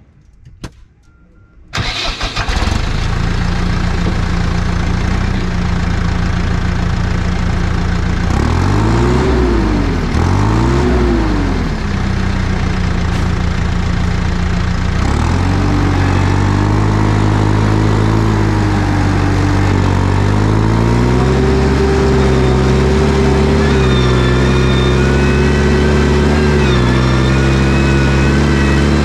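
New Holland T6040 tractor's diesel engine starting about two seconds in, then idling steadily. It is blipped twice around ten seconds in, then brought up to a higher steady speed in two steps, and a thin high whine joins near the end.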